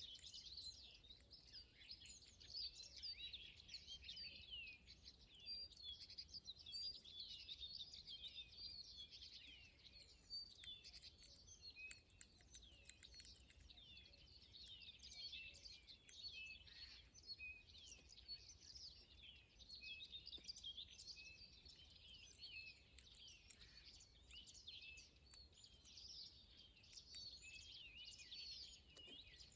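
Faint chorus of many small birds chirping and twittering at once: a dense, unbroken stream of short high calls and quick rising and falling notes.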